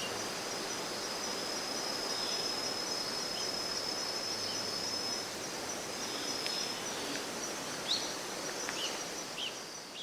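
Woodland ambience: insects trilling steadily at a high pitch over a hiss of background noise, with a few short bird chirps near the end.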